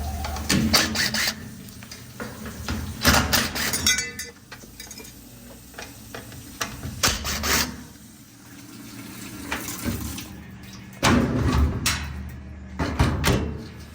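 Amana top-load washer running, with water rushing and a steady low hum, broken by repeated bursts of clunking and rattling.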